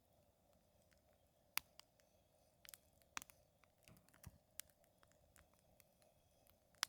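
Wood fire crackling: scattered, irregular sharp pops and snaps, the loudest about one and a half seconds in and just before the end.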